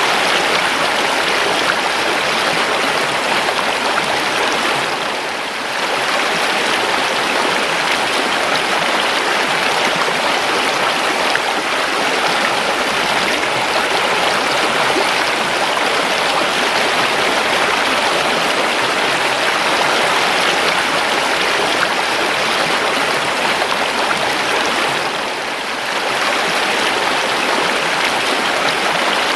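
A river flowing over rocks, a steady rushing and babbling of water that briefly dips in loudness twice, about five seconds in and near the end.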